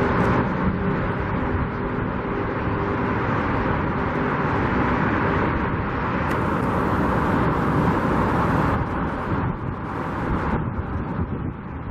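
Steady road traffic noise with a faint constant hum, a brighter hiss rising and fading from about six to nine seconds in.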